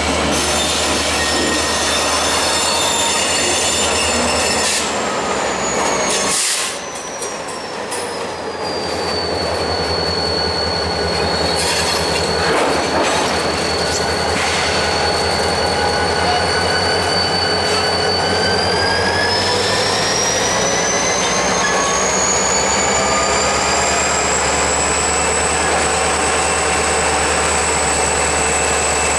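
Freight train rolling through a rail yard, its wheels squealing against the rails in long, high, piercing tones that slide down in pitch, hold, and later climb again, over a steady low rumble of the cars and locomotives.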